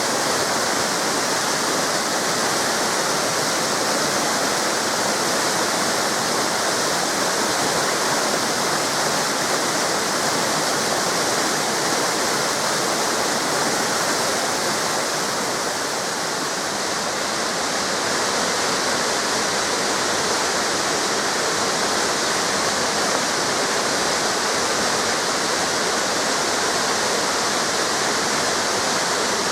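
Waterfalls of a river cascading over rocks: a steady, unbroken rush of falling water.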